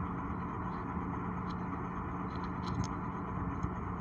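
Heavy diesel truck engine running steadily at a low, even drone, with a few light metallic clicks a little more than halfway through.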